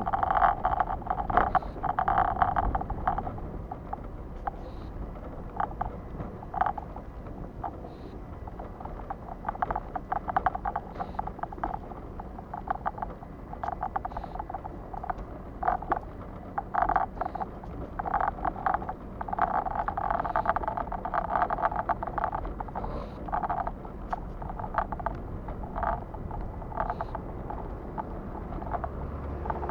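A vehicle running steadily, with irregular, uneven bursts of noise over a low rumble.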